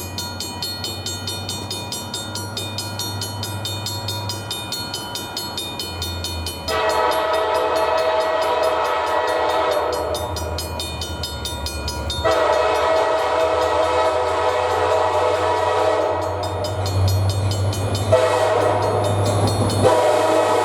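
EMD SD40-2 diesel locomotive approaching with its engine rumbling, then sounding its multi-chime air horn in the grade-crossing pattern: two long blasts, a short one and a long one that is still sounding at the end. A fast, even clanging runs under the engine before the horn starts.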